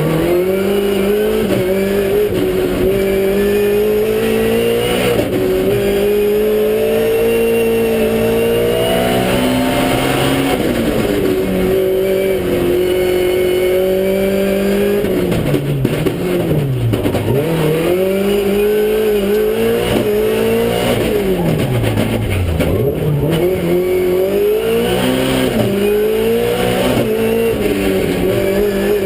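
Toyota Starlet race car's 1600cc engine heard from inside the car at racing speed. Its revs climb and drop back through repeated sequential-gearbox gear changes, and twice, about halfway through, they fall away steeply before pulling back up.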